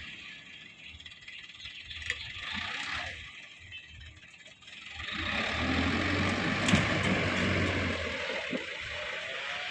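Dump truck engine running, getting louder about halfway through, with a single sharp click a couple of seconds later.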